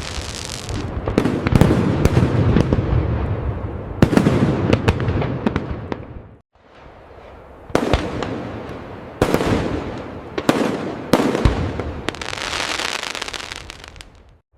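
Fireworks display: aerial shells bursting in a run of sharp bangs and booms, each trailing off into crackling and a low rumble, with a short break about halfway through.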